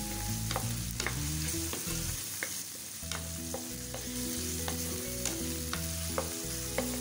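Boneless chicken pieces sizzling in hot oil with ginger-garlic paste in a pan, being seared until they lose their raw colour. A spatula stirs and scrapes them, with sharp clicks against the pan roughly once a second.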